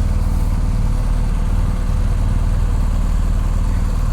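Motorcycle engine idling steadily, an even low rumble.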